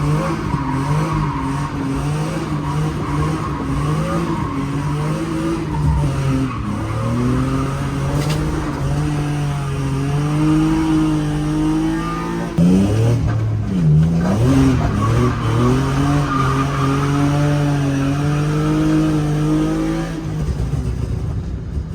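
BMW E36 M3 straight-six engine running under load, the revs dropping and climbing sharply a few times around the middle before settling again.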